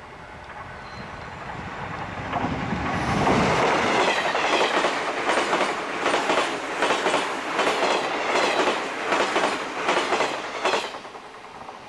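A train passing at speed, running louder from about two seconds in, then wheels clicking rhythmically in quick groups over the rail joints. The clicking stops abruptly near the end as the last car goes by.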